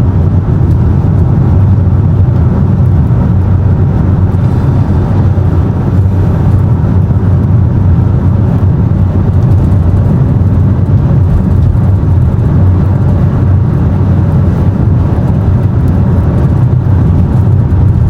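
Steady low rumble of a car driving at highway speed, heard from inside the cabin: engine and tyre noise with no distinct events.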